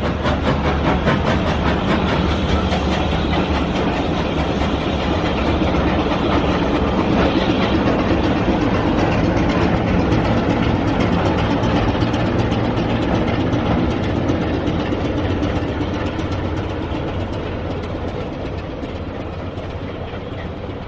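A heritage train running on the rails: a steady rumble with wheel clatter, which slowly fades away over the last several seconds.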